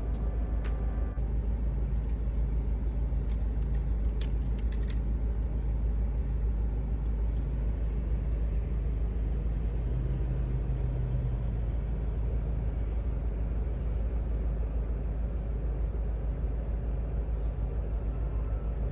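Steady low rumble of a four-wheel-drive vehicle being driven, with a few faint ticks about four seconds in.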